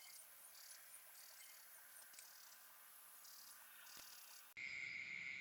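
Faint chirping of crickets and other insects in repeated short pulses. About four and a half seconds in it cuts abruptly to a louder, steady high-pitched drone.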